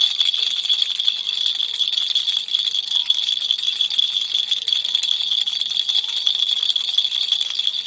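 Baby toy rattle shaken steadily and continuously: a dense stream of fast rattling clicks with a bright, high ring.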